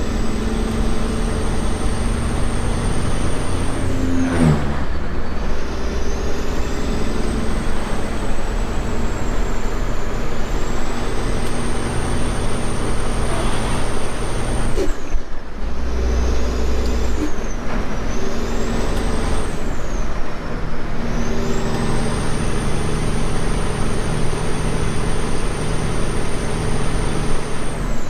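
Semi truck's diesel engine running on the road, with a high whine that rises and falls. The engine's pitch drops sharply twice, about four and fifteen seconds in.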